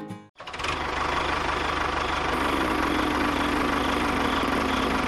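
Background music cuts off abruptly, then a small engine runs steadily at idle with an even low pulse.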